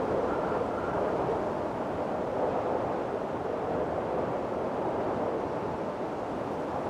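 Windstorm: strong wind blowing steadily in a dense rush that swells and eases slightly, with a faint whistling howl in the first second.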